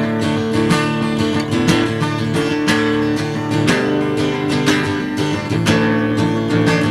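Acoustic guitar strumming chords in a steady rhythm: the instrumental intro of a folk-style song, with no singing.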